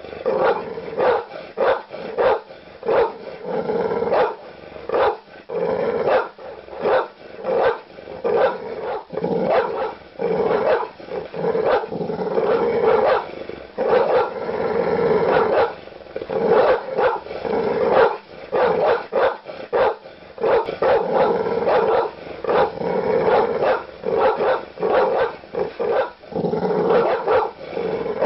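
Large dog barking aggressively: a rapid, nearly unbroken run of deep, loud barks, several a second.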